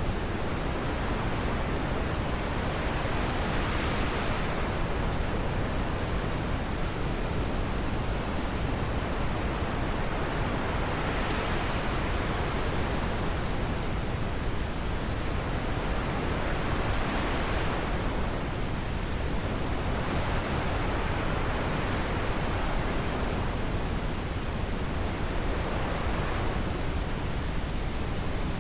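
Wind blowing steadily, its hiss swelling and easing every five or six seconds.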